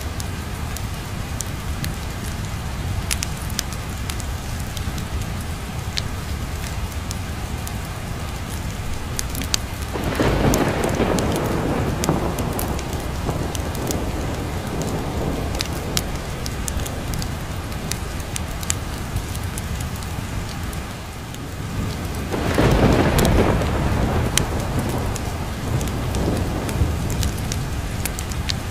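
Steady rain with two rolls of thunder, the first about ten seconds in and the second, louder one about twenty-two seconds in. Sharp crackles and pops of a wood fire are scattered throughout.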